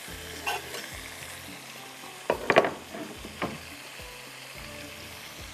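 Ginger-garlic spice masala with chopped tomatoes sizzling as it fries in hot oil. A few sharp clatters of kitchen utensils cut in, loudest a little before the middle.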